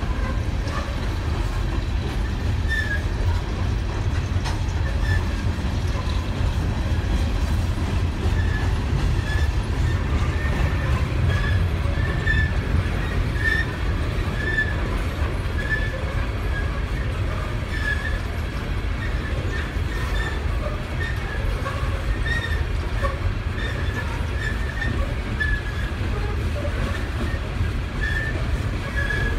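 Freight train of mostly empty coal cars rolling past: a steady low rumble of wheels on the rails, with frequent short, high wheel squeals.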